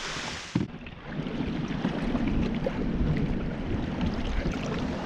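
Wind rumbling on the microphone, with water noise around a kayak on the open water. There is a single short knock just under a second in.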